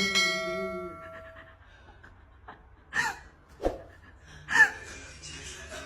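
A single ringing metallic ding that fades over about a second and a half, followed by three short sharp sounds later on.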